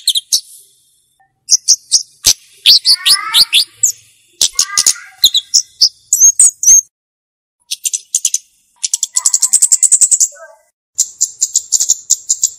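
Flowerpecker calling: bursts of sharp, high ticking notes and short chirps with brief pauses between them, then fast rattling trills near the end.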